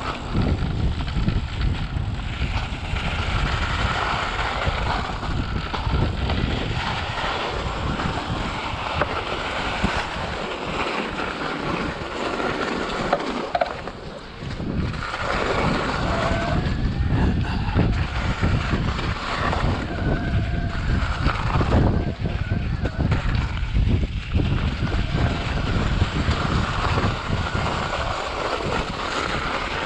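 Wind buffeting the microphone: a steady, rumbling noise that drops off briefly about fourteen seconds in.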